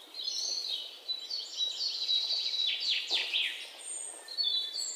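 Birdsong: several birds chirping and trilling, with a few quick downward-sweeping calls about three seconds in.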